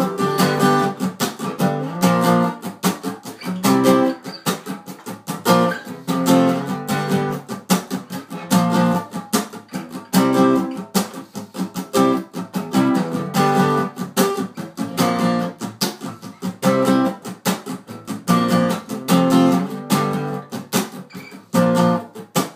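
Acoustic guitar strummed in a steady rhythmic pattern, an instrumental break with no singing.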